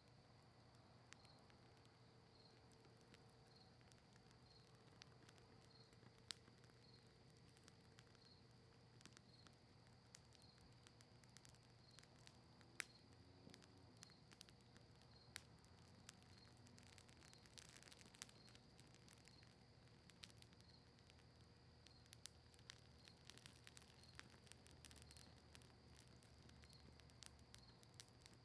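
Faint crackling of a cedar-leaf and maple-wood campfire: scattered sharp pops and ticks, busier in the second half. A faint steady high tone pulses about once a second behind it.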